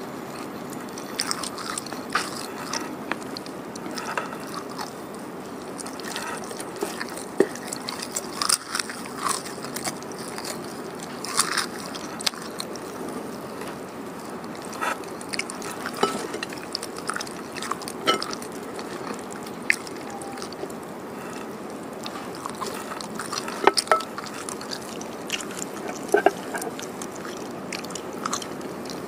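Close-miked eating: chewing of pecel (boiled vegetables, tofu and rice cake in peanut sauce), with irregular wet mouth clicks and small crunches over a steady background hiss.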